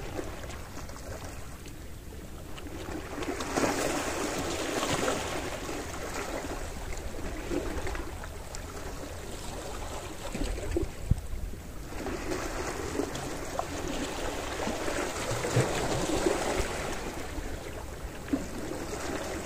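Sea waves washing onto the shore, rising and falling in two long surges, over a steady low rumble of surf with some wind on the microphone.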